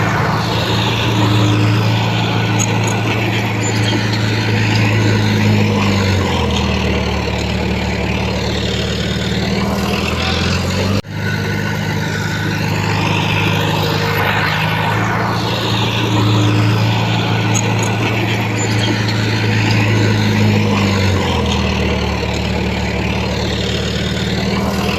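Heavy diesel machinery engine running steadily, its note dropping lower about six seconds in, coming back up after a brief dropout about eleven seconds in, and dropping again near the end.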